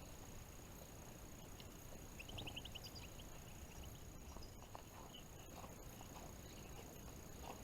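Faint chirping calls of small finches, with a quick run of short, high notes about two seconds in and a few scattered softer notes later.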